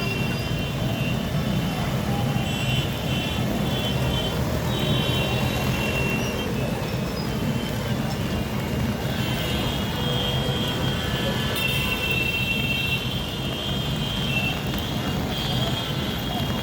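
Street traffic noise of a jammed road: many vehicle engines running steadily, with thin high-pitched tones coming and going over it.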